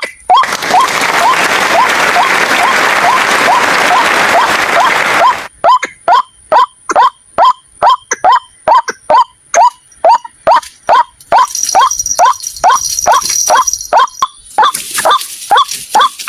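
Repeated call of the white-breasted waterhen (ruak-ruak), used as a trapping lure: a fast, even series of short rising 'kwak' notes, about three a second. A loud rushing noise covers the calls for the first five seconds or so, and a thin high-pitched tone sounds for a couple of seconds past the middle.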